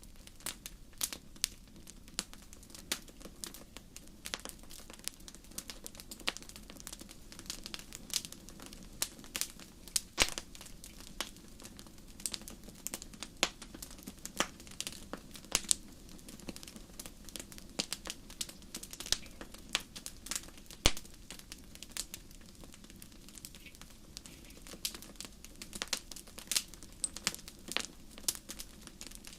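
Wood fire crackling and popping: irregular sharp snaps, several a second, over a low steady rumble of the flames.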